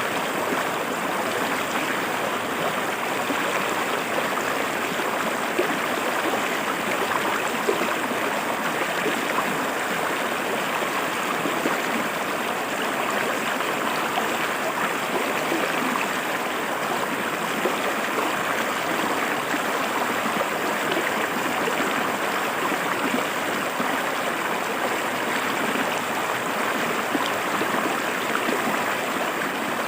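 A river running over rocks: a steady, even rush of flowing water with small irregular splashes and gurgles.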